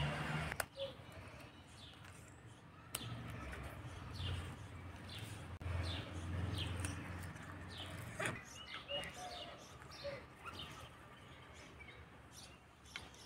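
Small birds chirping on and off in short, falling chirps, with a couple of sharp clicks early on.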